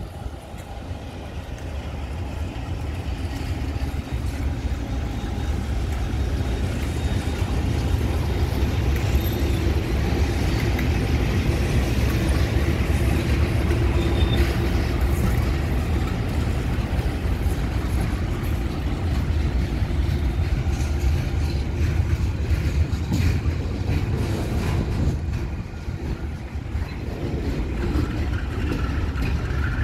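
Two KiwiRail DX-class diesel-electric locomotives approach and pass with a deep engine drone that builds over the first several seconds. The drone is followed by container wagons rolling and clattering over the rails.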